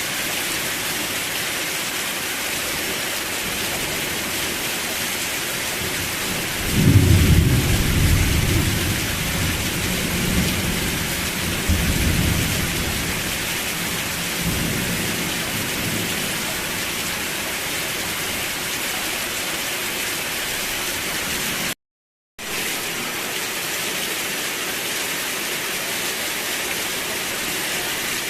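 Steady rain falling, with a rumble of thunder breaking in about seven seconds in and rolling away over the next nine seconds or so. The sound drops out completely for half a second about three-quarters of the way through.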